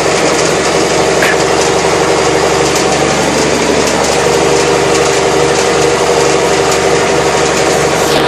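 Military-style truck's engine running steadily while the truck is driven, exhaust routed out a stack; the engine is still a little cold.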